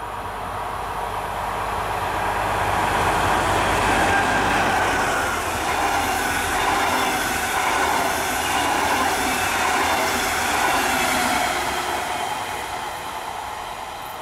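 Red double-deck regional push-pull train rolling past: the steady rumble of wheels on rails swells as the double-deck coaches come close, holds for several seconds while they pass, then fades as the train moves away.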